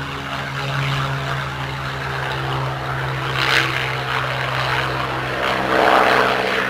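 Propeller aircraft's piston engine running steadily, which the listener takes for a Spitfire's. Its pitch rises slightly in the last couple of seconds.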